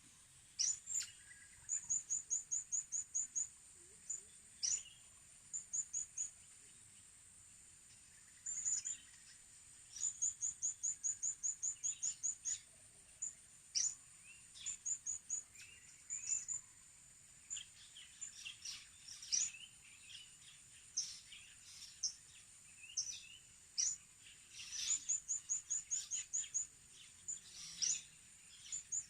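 Small birds calling high and sharply: quick runs of repeated chirps, about eight a second, mixed with single sharp downward-sweeping notes, with short gaps between. A steady high hiss runs underneath.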